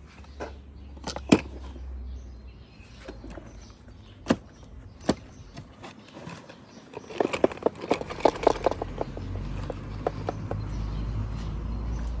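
Hands handling plastic doll toys and packaging: scattered sharp clicks and taps, then a quick run of rattling clicks about seven to nine seconds in, over a low hum.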